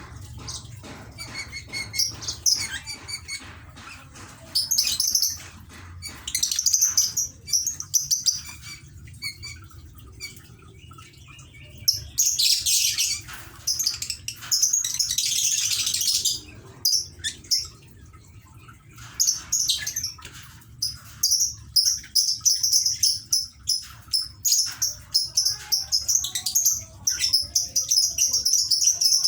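Lovebirds chirping in quick, high-pitched runs, with a harsher, noisier chatter lasting a few seconds midway. A low steady hum runs underneath.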